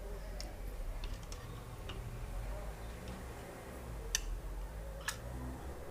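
Scattered sharp light clicks and taps of small hard parts being handled, about five in all, the loudest about four seconds in, over a low steady hum.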